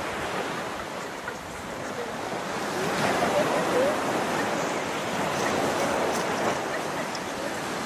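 Waterfall water rushing steadily, an even roar of falling and splashing water.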